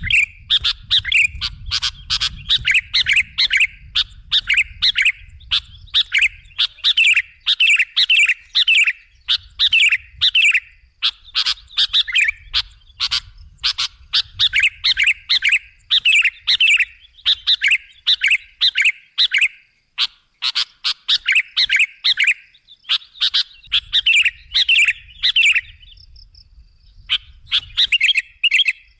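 Sooty-headed bulbul (kutilang) calling, quick chirping notes in rapid, continuous series, with a pause of about two seconds near the end; the kind of call used as a lure for trapping bulbuls. A faint low rumble comes and goes underneath.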